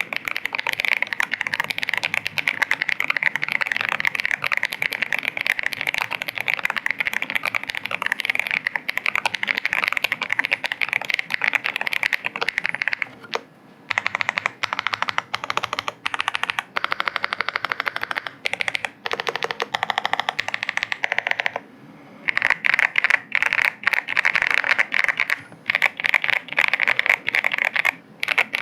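Fast, continuous typing on a zenzo ZKB104 HiFi gasket-mounted mechanical keyboard with 凝霜 switches, a PC plate and IXPE/PET foam layers: a dense run of keystrokes. There is a brief pause about halfway through and another about three-quarters through.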